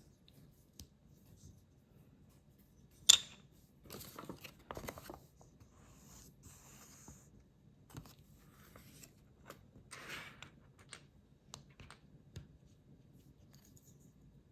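Plastic building bricks being handled and assembled: one sharp click about three seconds in, then scattered rustling and light clicks of pieces being picked up and pressed together.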